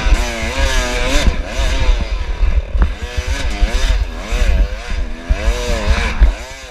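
Dirt bike engine ridden hard in a race, its pitch rising and falling every half second or so as the throttle is opened and closed.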